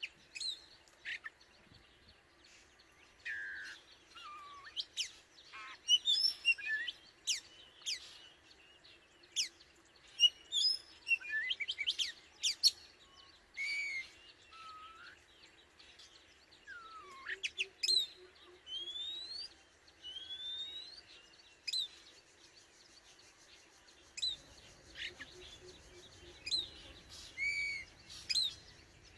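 Oriental magpie-robin singing: scattered phrases of short clear whistles, upward-sweeping notes and sharp chirps, with short pauses between them.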